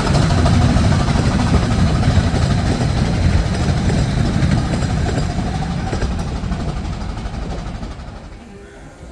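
Miniature-gauge steam train running past, loud at first and then fading away over the last few seconds as it draws off.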